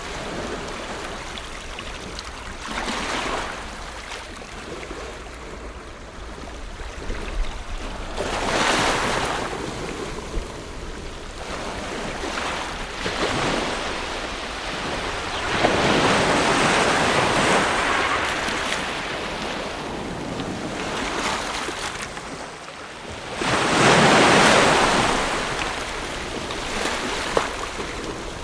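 Ocean waves breaking on a shore: a steady rushing wash that swells and eases as each wave comes in. About five surges come a few seconds apart, and the loudest is near the end.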